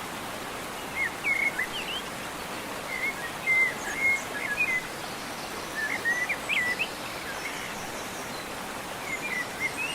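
A songbird singing short whistled, warbling phrases, about four bursts of song a few seconds apart, over a steady background hiss.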